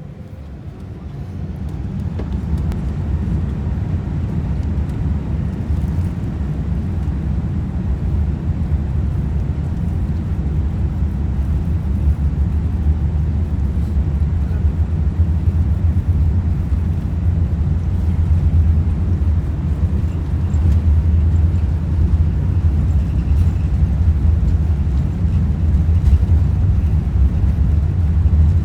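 Airbus A380's four jet engines spooling up to takeoff thrust, heard inside the cabin as a deep rumble. It swells over the first couple of seconds, then holds steady and slowly grows louder through the takeoff roll.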